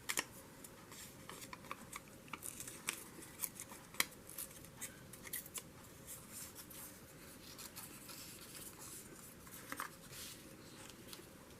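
Scissors snipping paper: faint short snips and rustles, coming thick in the first half and thinning out later.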